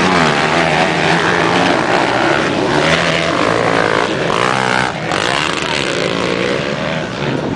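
Several motocross bikes' engines racing, their pitch rising and falling as riders rev and shift, with the sound breaking off abruptly about five seconds in and picking up again.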